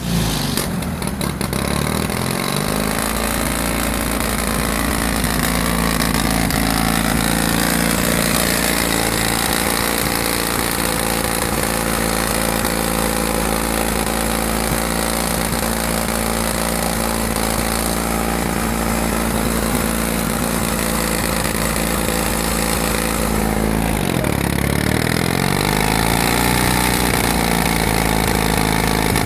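Caterpillar D311 diesel generator engine catching and spinning up to speed, then running steadily. About 24 seconds in its speed sags briefly and climbs back.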